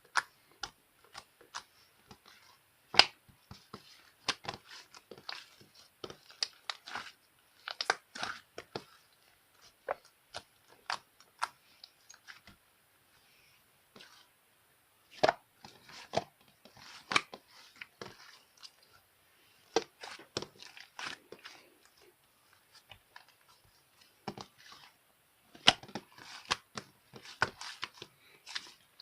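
Slime being played with, giving irregular crackling and popping clicks that come in clusters with short lulls.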